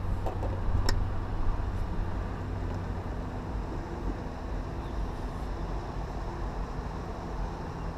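Engine running steadily, a low hum with road or water noise over it, and a single sharp click about a second in.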